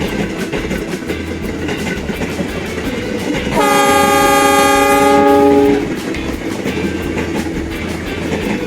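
Miniature train running along its track with a steady clatter, and a train horn sounding once, a single steady note held for about two seconds midway through.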